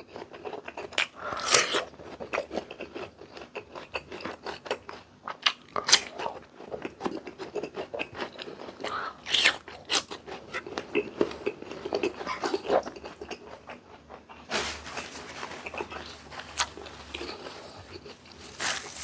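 Close-miked chewing of crunchy raw fruit dressed in shrimp paste, with many short crisp crunches and wet mouth sounds throughout, and a denser, hissier stretch about three-quarters of the way through.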